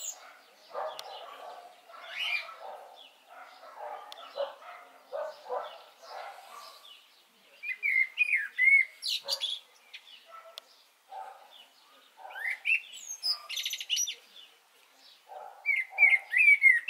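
Songbirds chirping and singing: a string of short calls, sweeping whistled notes and trills, louder about halfway through and again near the end.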